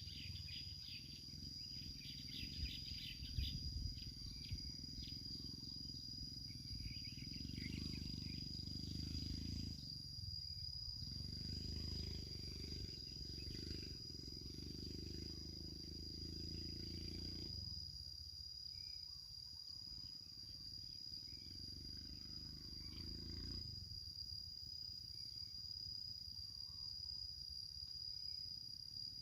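Insect, cricket-like, trilling steadily at one high pitch throughout, over a low rumble. A few faint chirps come in the first few seconds.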